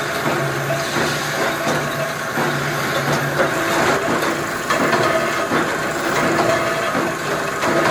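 Factory production machinery running, a steady hum with frequent clicks and clatter.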